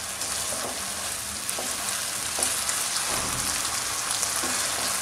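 Chicken strips, carrot and capsicum sizzling steadily over a high flame in a nonstick frying pan as they are stir-fried with a slotted spatula, with a few light scrapes of the spatula against the pan.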